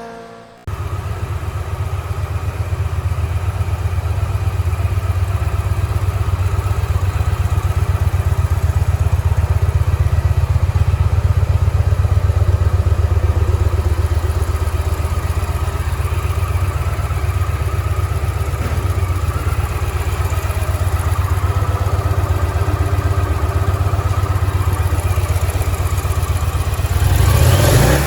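2011 Victory Cross Roads motorcycle's 106 cubic inch V-twin engine idling steadily with an even pulsing beat. Near the end it is briefly revved.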